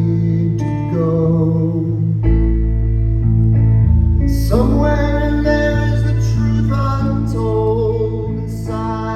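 Live band playing an instrumental stretch of the song: guitar chords ringing over a heavy bass, with a deep bass note coming in about two seconds in and a brighter gliding note about halfway through.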